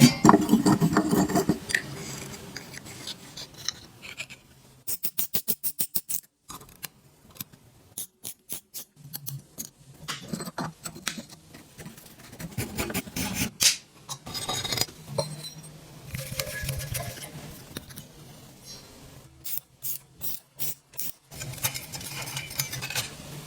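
Hand tools working on old electric fan metal parts: scraping and rubbing, with two runs of rapid clicks and scattered knocks of metal on metal.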